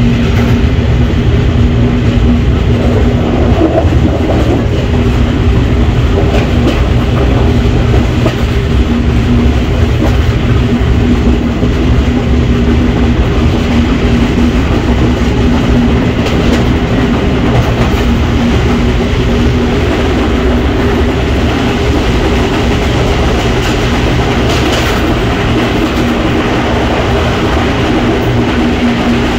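Train running along the track, heard from the rear observation car: a steady, loud rumble of wheels on rail with a constant low hum and occasional faint clicks.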